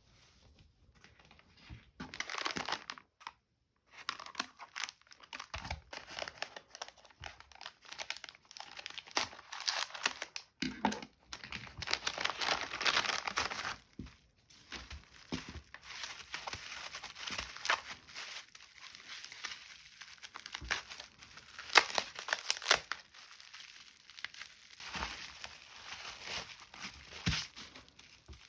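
Crinkling and tearing of packaging being handled and opened by hand, in stop-start rustles with small taps and clicks.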